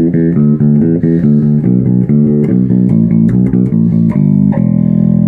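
Custom Zoot Wal-style passive electric bass with multi-coil pickups, both pickups and both tone controls full on and the pickups wired in series, played through a Markbass head and 1x12 cabinet: its full core tone. A quick run of plucked notes, several a second, ends on one held note that rings on from about four and a half seconds in.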